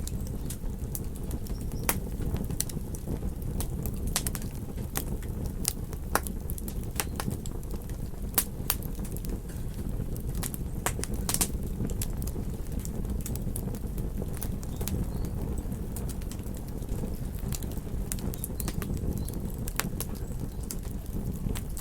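Wood campfire crackling, with many sharp irregular pops and snaps over a steady low rush.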